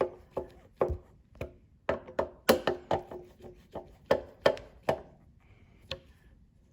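Hand tools and small metal parts knocking and clicking against a hard surface while the fuel valve is worked on: a quick, irregular run of sharp knocks, about three a second, thinning out near the end.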